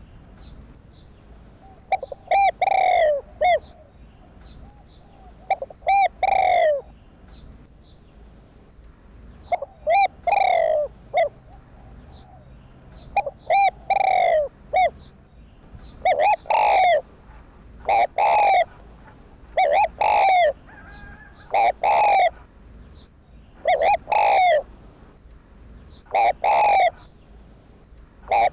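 Spotted dove (Streptopelia chinensis) singing its cooing song, a phrase of several coos repeated every two to four seconds. The recording is loud, and is of the kind played to stir up captive male doves.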